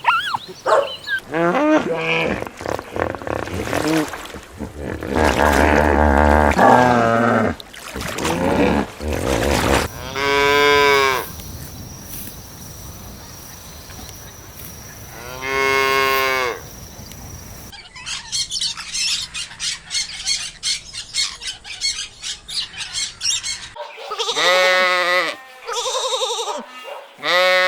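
A run of farm animal calls, including cattle mooing: two loud, drawn-out moos of about a second each, among other shorter animal calls and noises.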